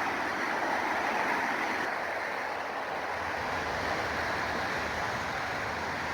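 Steady rushing noise with no distinct events or pitch, holding level throughout.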